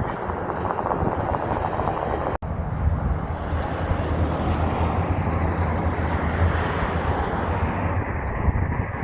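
Heavy truck driving past with its diesel engine running loud, a steady low drone under road and wind noise. The sound breaks off for an instant about two seconds in, then the drone comes back stronger.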